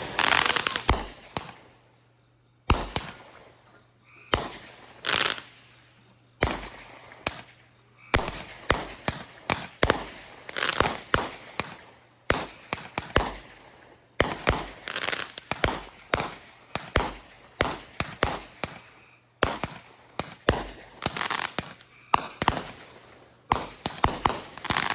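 Consumer fireworks going off in a long irregular series of sharp bangs, some spaced a second or two apart and others in quick clusters of several. Each bang trails off in a short noisy crackle.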